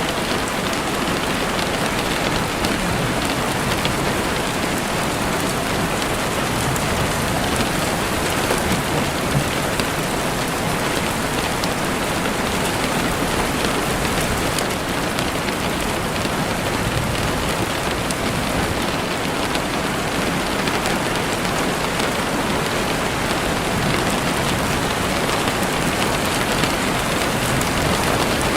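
Steady rain falling evenly, with scattered small crackles and ticks of a campfire.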